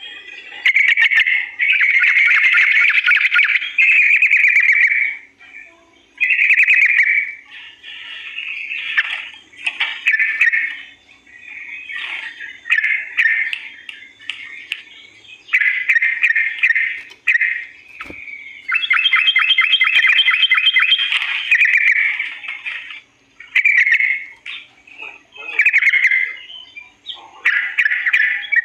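Yellow-vented bulbul (cucak trucukan) singing loudly in phrases of one to three seconds, one after another with short gaps, several of them fast rolling trills.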